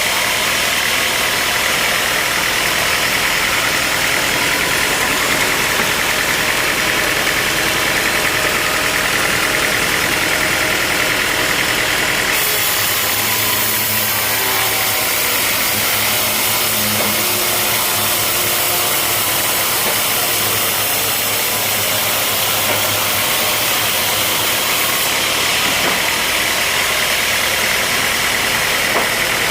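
Sawmill machinery running steadily, a loud, continuous mechanical noise. Its character changes abruptly about twelve seconds in and again near the end, when low steady hums appear and the hiss brightens.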